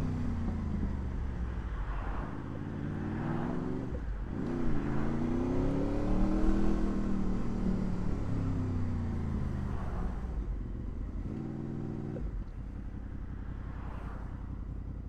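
Honda VFR800 V4 engine under way, its pitch falling as it slows, dipping and picking up sharply about four seconds in, rising as it pulls away, then falling again. Near the end it settles to a low steady note.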